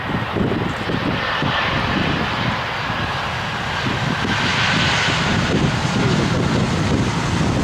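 An airliner's engines passing, with a whine that drifts slowly lower and a rushing noise that swells about five seconds in. Wind buffets the microphone throughout.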